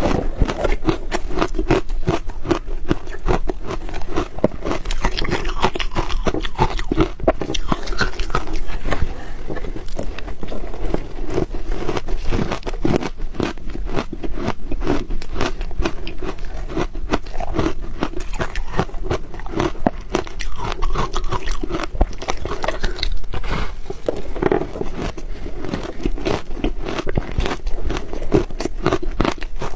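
Close-miked chewing of crunchy ice: rapid, continuous crunching and cracking of ice between the teeth.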